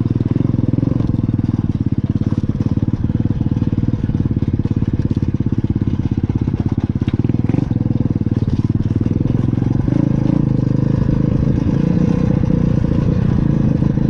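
Pit bike engine running steadily while being ridden, its firing pulses rapid and even, shifting slightly about ten seconds in.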